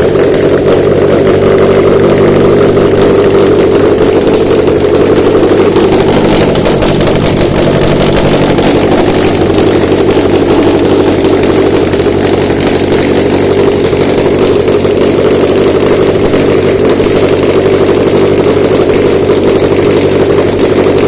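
Subaru FB20 2.0-litre flat-four engine idling steadily on an engine test stand, the bench check of a used engine.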